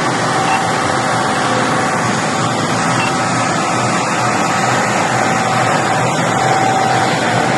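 Steady running engine noise with a faint, steady whine, unchanging throughout.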